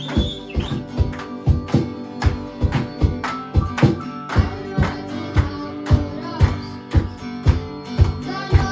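Worship band playing an instrumental intro: strummed acoustic guitar over held chords, with a steady beat of about three strokes a second.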